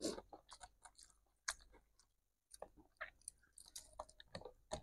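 Faint chewing and mouth clicks of a person eating nasi Padang by hand: a scatter of short, irregular clicks, a little stronger right at the start, about a second and a half in, and near the end.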